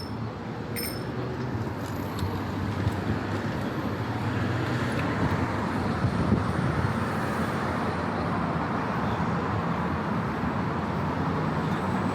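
Steady noise of city road traffic, engines and tyres blending into one continuous wash, getting a little louder a few seconds in. A short high clink sounds just after the start.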